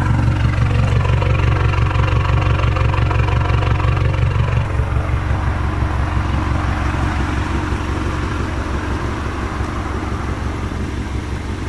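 BMW four-cylinder engine with an aftermarket exhaust running at steady low revs under way, getting gradually quieter across the stretch with no clear rev rise or shift.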